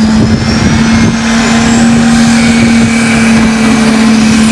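Tractor engine running hard at high, steady revs: a loud, even drone, with a faint high whine rising in pitch over the first couple of seconds.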